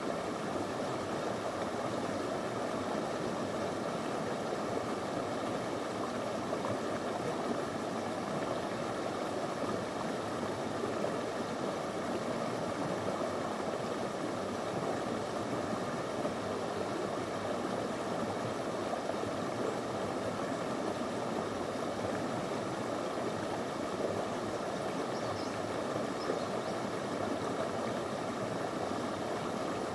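Small stream flowing over stones, a steady rushing and babbling of water.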